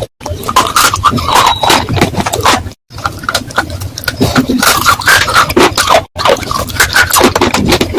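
Close-up crunching and scraping of clay pot material, in short spliced clips, with brief dead-silent gaps at the cuts about a third of a second in and roughly three and six seconds in.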